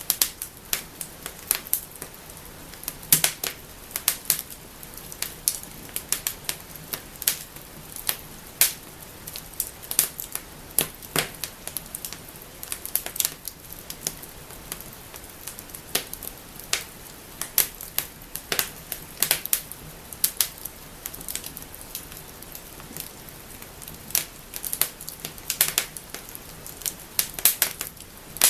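Wood fire burning in a fireplace, crackling and snapping: irregular sharp pops and cracks, several a second and a few much louder, over a soft steady hiss of flame.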